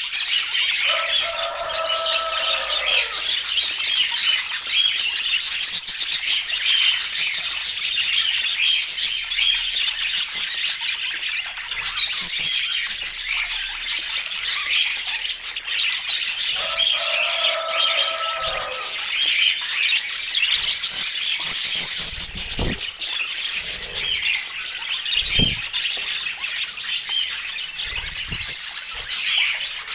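A flock of budgerigars chattering and squawking without a break, dense and high-pitched. Twice a lower, held call of about two seconds rises above the chatter.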